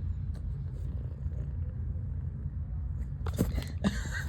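Domestic cat purring, a steady low pulsing rumble, with a few short scratchy rustles near the end.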